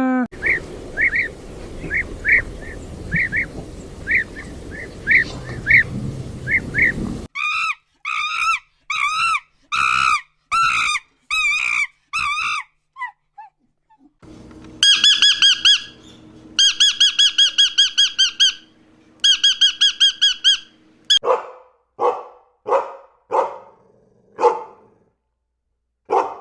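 A series of different animal calls: short repeated chirps over a noisy background, then pitched calls and fast trilled calls in quick runs, then a string of short barks near the end.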